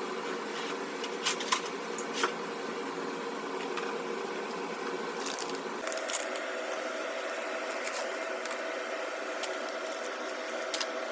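A steady machine-like hum with several short sharp clicks or clinks scattered through it. About six seconds in, the hum jumps abruptly to a slightly higher pitch.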